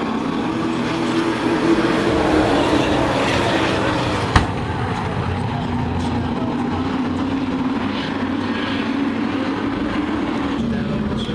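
Racing trucks' engines running on the oval track, a steady loud drone with a sharp click about four seconds in.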